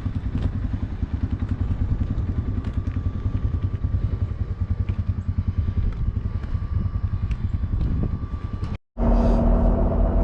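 Piaggio MP3 three-wheeled scooter's single-cylinder engine idling with a fast, even low pulse. Near the end it cuts off abruptly and a different steady engine drone follows.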